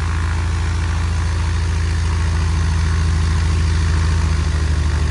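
Six-cylinder engine of a 1948 Cessna 170 idling steadily on its first run after sitting.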